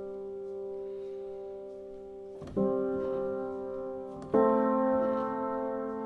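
Background music of slow, sustained piano chords, a new chord struck about two and a half seconds in and another just past four seconds, each ringing on and fading slowly.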